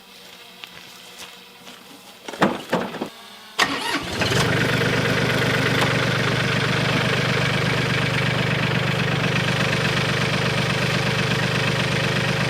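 Mahindra 1626 compact tractor's diesel engine starting about three and a half seconds in, after a few short knocks, then idling steadily.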